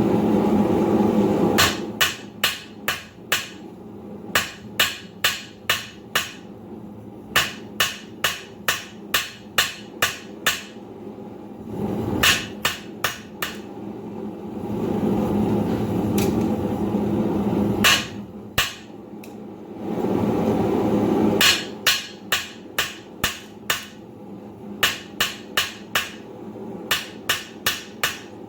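Hand hammer striking hot steel on an anvil in runs of sharp, evenly spaced blows, about two a second, drawing out a reverse taper. Between some runs there is a loud, even rushing noise.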